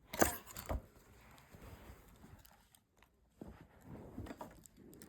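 Two sharp taps about half a second apart as drawing things are handled, then faint scratchy rustling in the second half.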